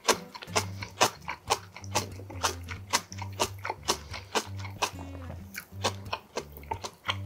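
Close-miked wet chewing of ramen noodles, a sharp mouth click about twice a second, over background music with a low bass line.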